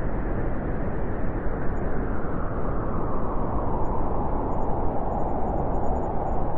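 Howling wind blowing strongly and steadily, a dense rushing noise heavy in the low end.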